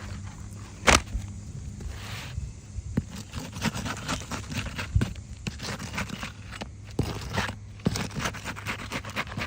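Scraping and crackling as an asphalt 3-tab shingle is pried and peeled loose from its seal, with irregular small clicks and one sharp click about a second in.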